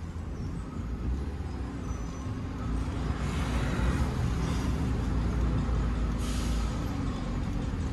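Car engine running at low speed as it pulls away towing another car on a rope, with city traffic around it. Two brief hisses come through, about three seconds in and again near six seconds.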